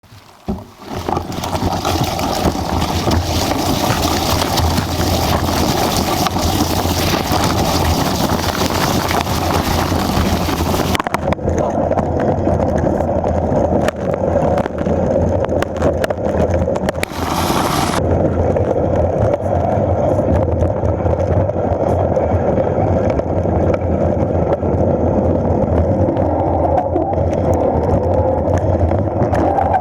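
Steady wind rush and rumble on the microphone of a mountain bike being ridden over a wet trail, with frequent small knocks from the bumps.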